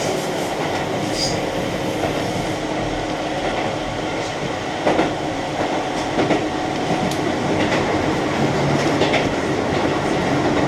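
Keihan Main Line electric train running between stations: steady running noise with a few sharp clacks from the wheels over the rails.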